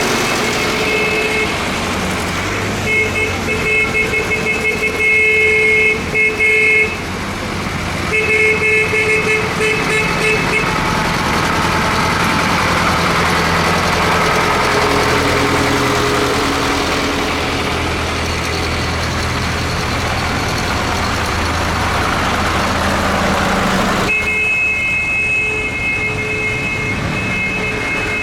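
Vehicle horn honking over the steady running of tractor engines: a run of quick toots, then a longer blast, and another long blast near the end.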